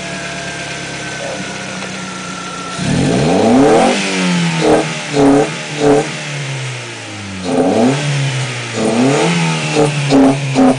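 1996 Ford Probe's engine heard under the open hood, idling for about three seconds, then revved: one long climb and fall, followed by a string of short, quick throttle blips, each rising and dropping back toward idle.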